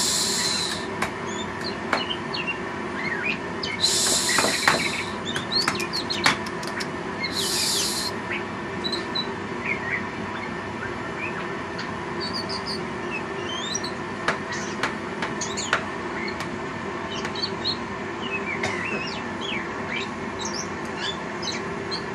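Oriental magpie-robin (kacer) giving soft, scattered chirps and short twittering notes, the quiet warm-up song of a caged bird getting used to a person close by. Three short hissy bursts come near the start, about four seconds in and about seven and a half seconds in, over a faint steady hum.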